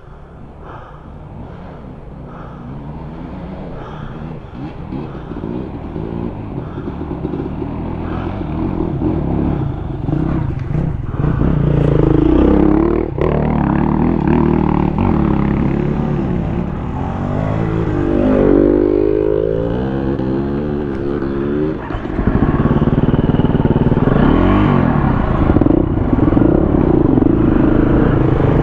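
Dirt bike engine revving on a trail, its pitch rising and falling with the throttle. It grows steadily louder over the first dozen seconds and stays loud to the end.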